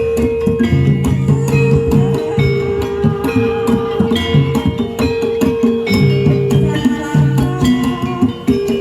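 Jaranan accompaniment played by a gamelan-style ensemble: fast, steady drum and struck-metal percussion over held pitched notes.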